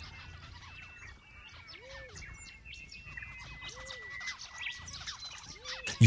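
Faint birdsong: many quick chirps, and three times a low call that rises and falls, about two seconds apart.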